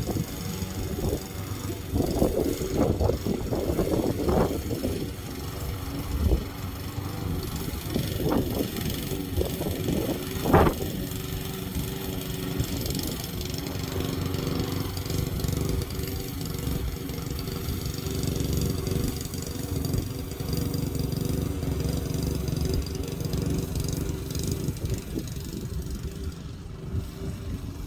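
Lawn mower engine running steadily, with several short louder surges in the first eleven seconds or so.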